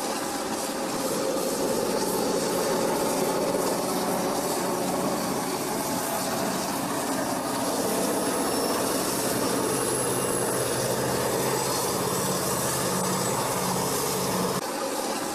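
Passenger train running along the track: a steady rushing rumble of the train in motion.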